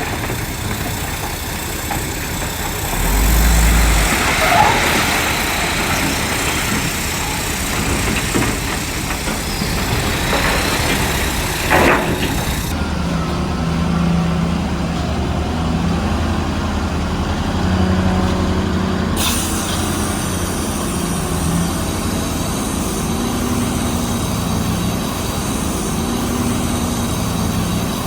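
Heavy diesel engines of a bulldozer and dump truck running at work, with a deep surge about three seconds in and a short sharp noise about twelve seconds in.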